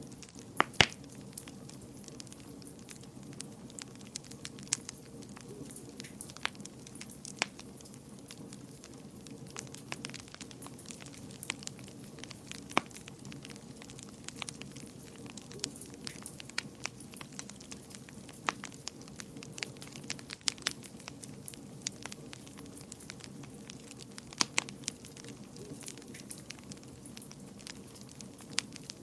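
Wood fire crackling in a fireplace: irregular sharp pops and snaps, a few of them much louder, over a steady low rumble of the flames.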